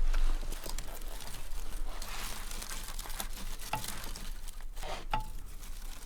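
Irregular rustling and crinkling with many small clicks, and two sharper light taps with a brief ringing tone, one midway and one near the end.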